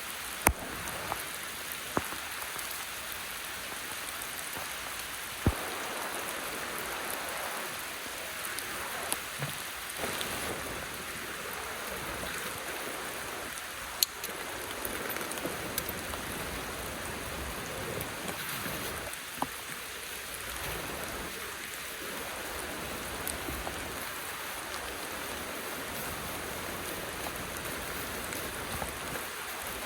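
Steady rain falling, with a few louder single drops striking close by now and then.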